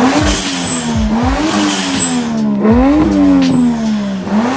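Turbocharged 1JZ-GTE VVTi straight-six revved in quick blips about every second and a half, its note jumping up and sinking slowly back each time. After each blip a high whistle falls in pitch, the newly fitted blow-off valve venting as the throttle closes.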